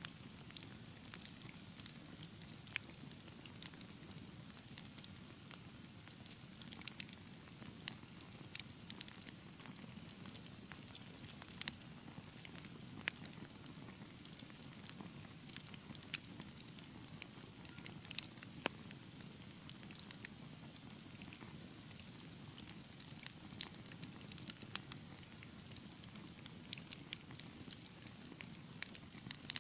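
Wood fire crackling steadily, with a low rush of flame and frequent irregular sharp pops and snaps, a few louder than the rest.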